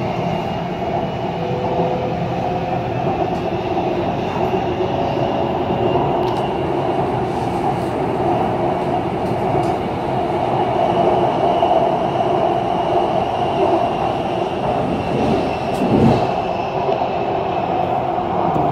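BTS Skytrain car running between stations, heard from inside: a steady rumble of wheels and motors with a faint high whine, and a louder low bump about sixteen seconds in.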